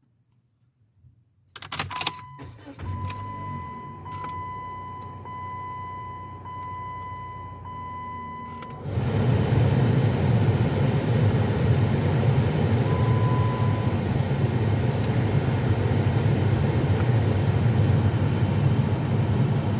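Car keys jangling and the ignition being switched on, followed by a steady dashboard warning chime tone for several seconds. About nine seconds in, the 2016 Jeep Patriot's engine starts and runs steadily, with no actuator clicking heard after the new actuator was fitted.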